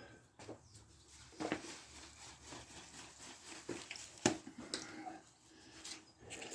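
Scattered light clicks and knocks of parts and tools being handled while working on a lawn mower's front wheel and axle, with the sharpest knock about four seconds in.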